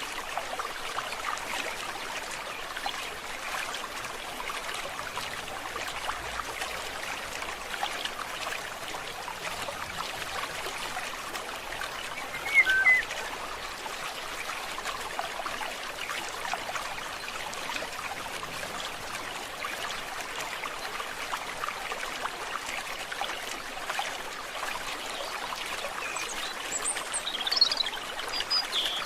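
Forest stream babbling and trickling steadily. A bird gives a short call about halfway through, and a few high bird chirps come near the end.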